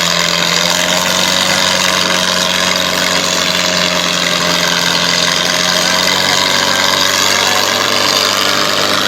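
Tractor diesel engine running steadily under throttle, loud and unchanging in pitch.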